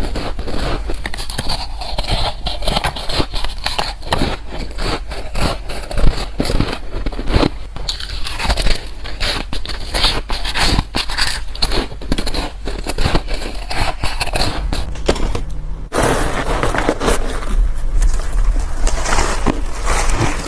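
Close-miked crunching of soft, frosty white ice chunks being bitten and chewed, a dense run of crisp, crackly crunches.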